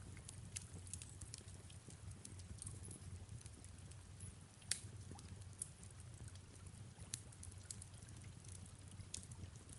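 Wood fire crackling in a fireplace: scattered sharp pops and snaps, one louder pop about halfway, over a soft steady rumble with gentle rain.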